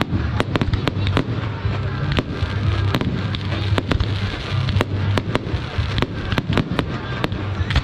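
Fireworks display: a rapid string of sharp cracks and bangs from bursting aerial shells, about two or three a second, over a steady low rumble.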